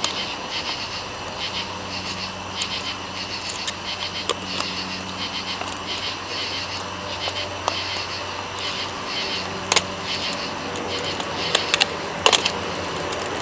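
Zip tie being handled and fastened around a rubber bike inner tube on a van's exhaust pipe, giving a few sharp clicks in the second half. Behind it, a steady high-pitched insect chorus pulses about three times a second over a low hum.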